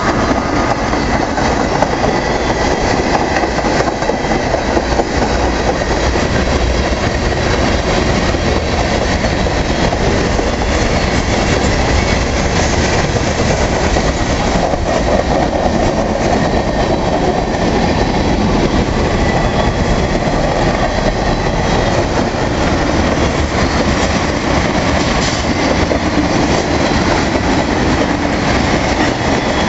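Freight train of covered hopper and tank cars rolling past close by: a loud, steady rumble and clatter of steel wheels on the rails.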